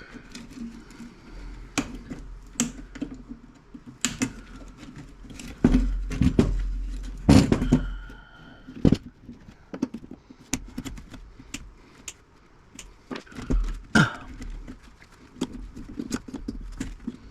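Irregular clicks, clinks and knocks of hand tools and small metal parts on an old radio chassis being taken apart for scrap, with a few dull handling thumps.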